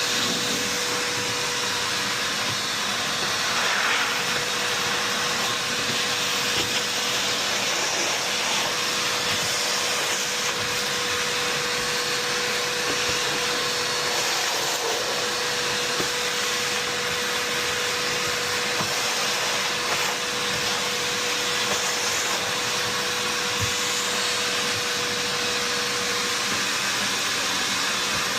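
A motor running steadily with an even rushing noise and a constant whine, unchanging throughout.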